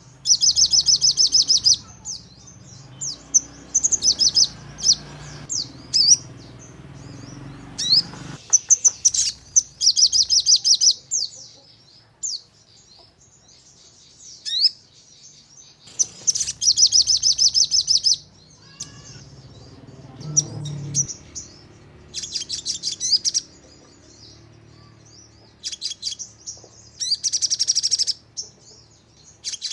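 Sogon songbird singing in repeated bursts of rapid, sharp, high-pitched notes fired in quick succession, each burst about one to two seconds long, with single chirps between them. This is the rapid 'nembak' song used as a lure recording to provoke other sogon into singing.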